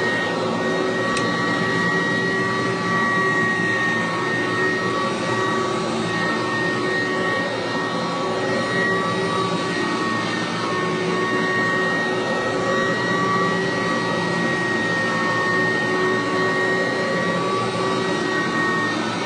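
Kirby Classic Omega upright vacuum cleaner running steadily, its motor rush overlaid with a steady high-pitched whine.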